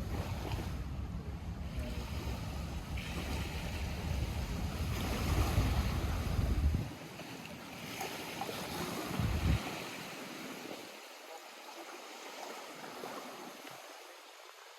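Lake water lapping and splashing at the shore, under a strong low rumble that cuts off abruptly about seven seconds in, returns briefly, and then gives way to quieter lapping.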